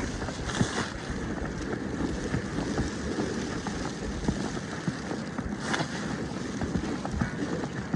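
Blizzard wind buffeting the microphone, a steady low rumbling rush of noise, with two brief louder gusts of hiss: one about half a second in and one near six seconds in.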